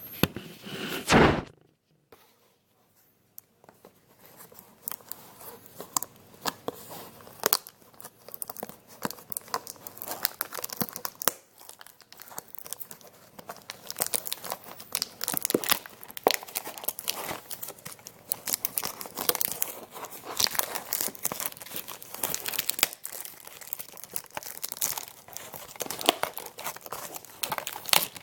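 Plastic shrink-wrap being torn and crinkled off a sealed trading card box, a dense run of crackles and rips. A loud thump about a second in, then a brief quiet before the crinkling starts.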